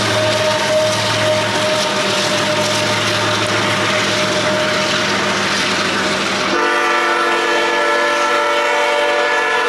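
Freight train with diesel locomotives rolling past, its autorack cars rumbling over the rails. About two-thirds of the way through, a multi-tone train horn starts abruptly and holds steady.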